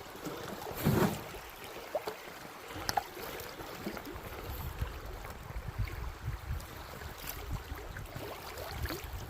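River water rushing around a canoe, a steady noise with a low rumble, broken by a few short knocks and splashes, the loudest about a second in.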